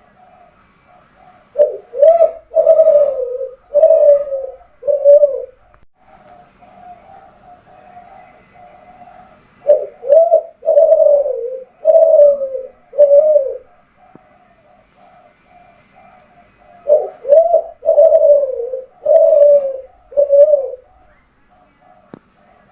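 Kelantan derkuku, a spotted dove, singing: three loud cooing phrases of about five or six notes each, some seven seconds apart.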